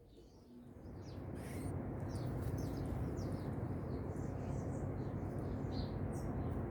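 Small birds chirping with many short, high calls, over a low rumble that swells over the first two seconds and then holds steady as the loudest sound.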